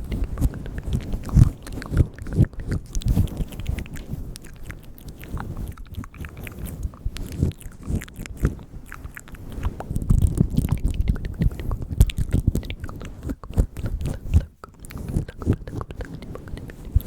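Close-miked ASMR mouth sounds: a dense, irregular stream of wet tongue and lip clicks and smacks, with softer low thumps mixed in.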